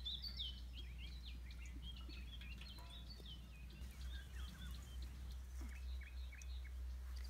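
Garden birds chirping and singing, many short high calls scattered throughout, over a low steady rumble.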